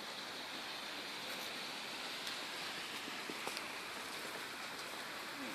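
Steady outdoor hiss with a few faint ticks scattered through it.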